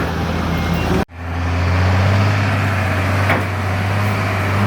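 Off-road 4x4 engine running at a steady low pitch under a haze of outdoor noise, cutting out for an instant about a second in and then carrying on.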